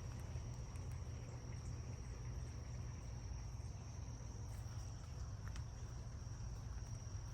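Crickets trilling: one steady high-pitched trill that does not stop, over a low rumble.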